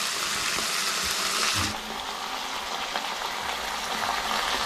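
Quail pieces sizzling steadily in hot oil in a nonstick pan as they are turned over with a slotted metal spatula, with a soft knock about one and a half seconds in.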